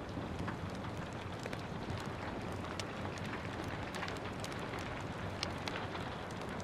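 Steady rain mixed with a crackling wood fire: an even wash of noise with scattered sharp pops and snaps throughout.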